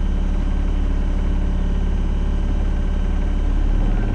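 Albin 28TE cruiser's inboard engine running at a steady low idle, a constant low hum with no change in pace.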